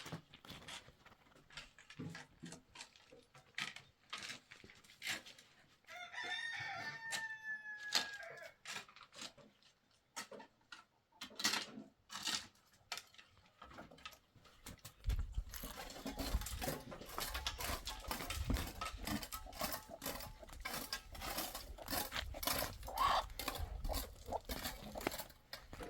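A rooster crows once, a single long call about six seconds in, among scattered clicks and knocks. From about fifteen seconds a dense crackling noise with a low rumble takes over.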